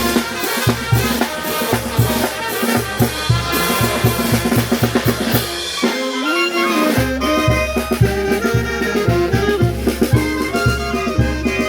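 A Peruvian brass band playing a lively tune, horns over a steady beat of bass drum and percussion. About six seconds in the drums drop out for roughly a second while the horns slide up a phrase, then the full band comes back in.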